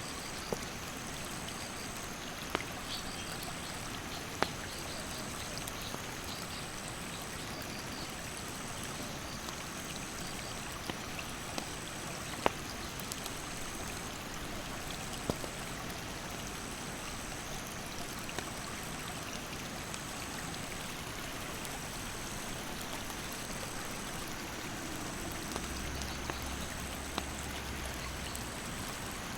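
Steady rush of a mountain stream, with sharp, irregular pops and crackles from a wood campfire burning nearby. High insect calls run over it: a steady shrill note and a second note that pulses about once a second.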